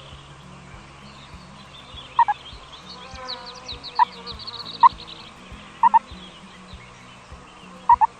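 Domestic fowl clucking: five sharp, short clucks spaced a second or two apart, some of them doubled, with a small bird chirping rapidly in the middle.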